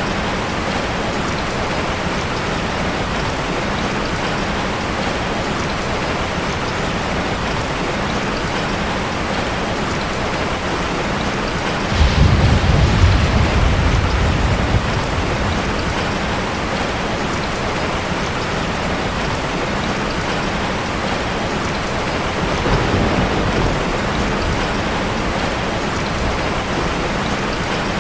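Heavy rain falling steadily. About twelve seconds in, a low rumble of thunder starts suddenly and lasts about three seconds, with a weaker rumble later on.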